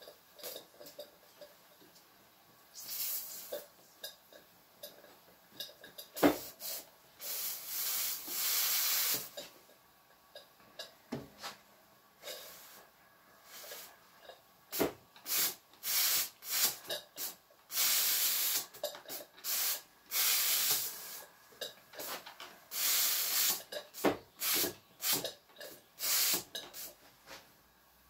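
Irregular bursts of hissing and spitting with scattered clicks and pops, from the small steam engine's boiler as it first comes to the boil.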